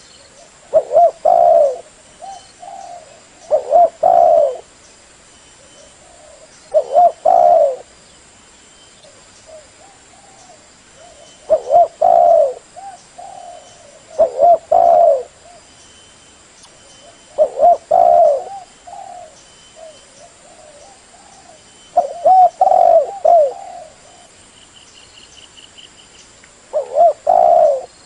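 Spotted dove cooing: short phrases of two to three low coos, repeated about every three to five seconds.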